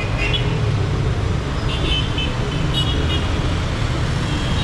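Dense city traffic rumbling steadily, with vehicle horns giving short high toots three times: near the start, just before two seconds in, and about three seconds in.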